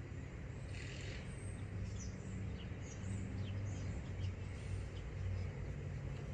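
Small birds chirping in short, scattered calls over a low steady background rumble.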